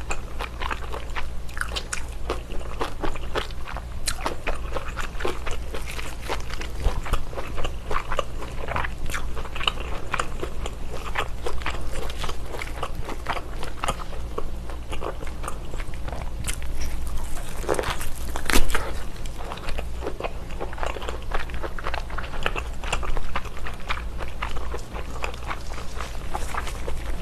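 Close-miked eating sounds of thick baked slab bacon being bitten and chewed: irregular wet crackles and clicks, with one louder bite partway through.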